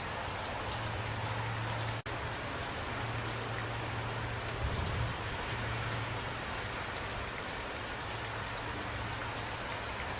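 Steady rain falling, with scattered individual drops ticking over an even hiss and a low steady hum underneath. The sound cuts out for an instant about two seconds in, and there are a few soft low thuds around the middle.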